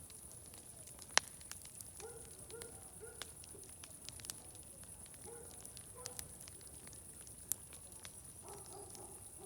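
Wood fire crackling, with scattered sharp pops, the loudest about a second in and another near the end, over a steady faint hiss. Faint short pitched sounds come and go in the background.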